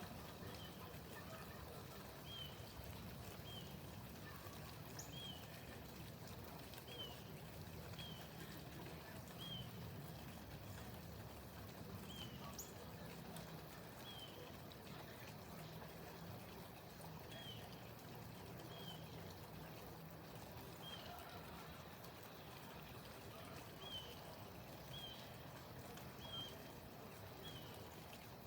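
A small bird chirping, short high notes repeated about once a second, over a faint steady rushing noise like running water.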